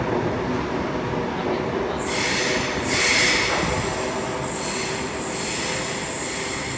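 Sydney OSCAR H-set electric train pulling out and running away into the tunnel, echoing in the underground platform: a steady motor whine under wheel-on-rail noise, with a burst of high wheel squeal about two to three seconds in, and a thin high squeal lingering as it recedes.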